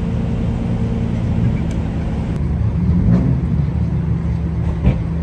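Car engine running at a steady idle, with a brief rise in pitch about three seconds in and a sharp click near the end.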